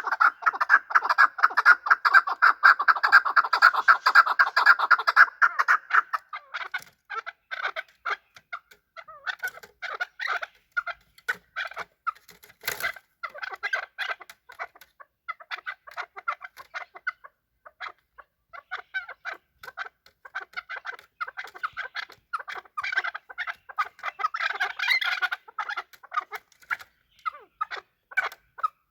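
Chukar partridge calling: a rapid, dense run of clucking notes for about the first six seconds, then scattered, quieter clucks, with another busy run a little before the end. A single sharp click about 13 seconds in.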